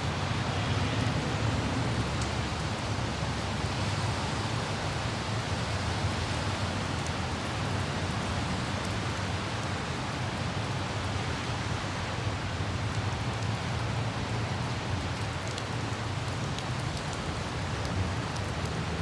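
Steady hiss of light rain with a constant low rumble of road traffic and wind underneath, and a few faint scattered droplet ticks.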